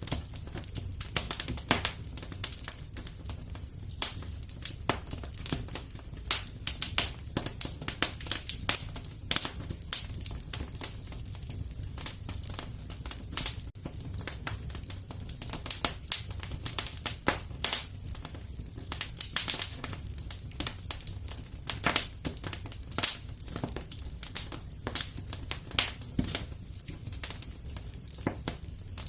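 Wood fire in a fireplace crackling: a constant scatter of small pops and snaps, with sharper louder ones every second or so, over a steady low rumble.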